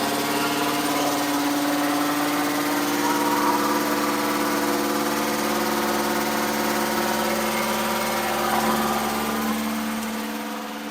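Engine running steadily at a raised idle during camshaft break-in, with loud lifter noise from the valve train. The owner puts the lifter noise down to valve lash that needs rechecking.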